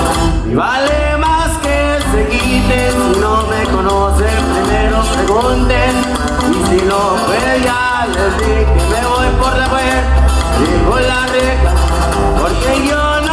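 Live Mexican regional band playing a Spanish-language song, with a deep bass line pulsing under the melody.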